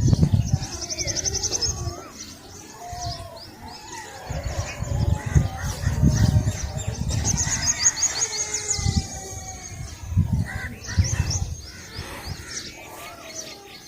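Several birds chirping and singing, with two bursts of fast, high trills, one near the start and one about halfway, over scattered shorter chirps. Low rumbling thuds come and go underneath.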